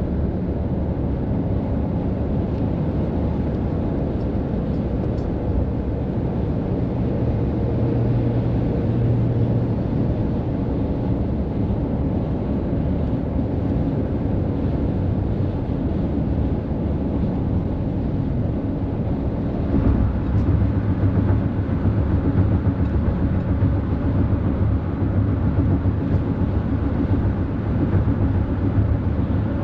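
Heavy highway trucks running past: a steady low diesel rumble with road noise, turning louder and rougher about two-thirds of the way through.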